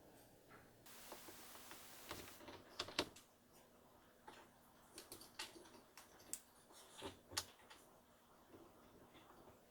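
Scattered light clicks and taps of small plastic pieces being handled: a Magiclip princess doll being dressed, its clip-on plastic dress being fitted. A short soft rustle comes near the start, and the loudest clicks fall about three seconds in and near seven seconds.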